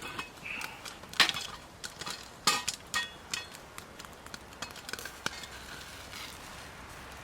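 Cookware and utensils clinking and knocking: a handful of sharp, irregular strikes, the loudest about a second in and again about two and a half seconds in, over a faint steady hiss.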